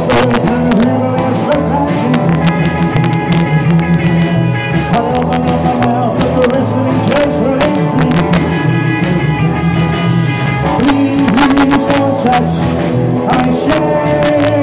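Rock and roll band playing live, with drums keeping a steady beat under bass and other instruments.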